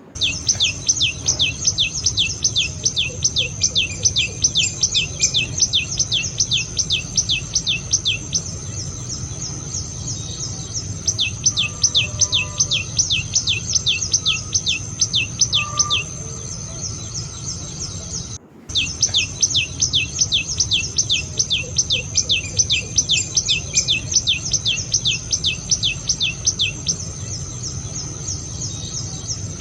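Common tailorbird singing: long runs of rapid, sharp down-slurred notes, about five a second, with pauses of a few seconds between runs. A steady high insect whine runs beneath it.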